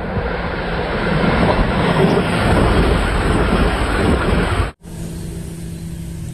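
Hull Trains Class 802 intercity train passing a station platform at speed: a loud, steady rush of wheel and air noise with some rail clatter. It cuts off sharply about five seconds in, leaving a much quieter steady background.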